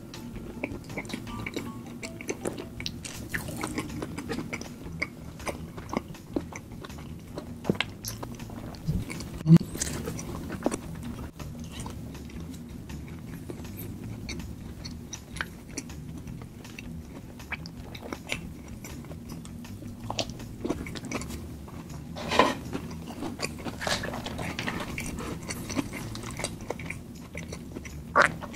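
Close-miked eating sounds of saucy shell-out seafood (lobster and king crab): wet chewing and lip smacking with many small clicks, and a couple of sharper, louder strikes about ten and twenty-two seconds in.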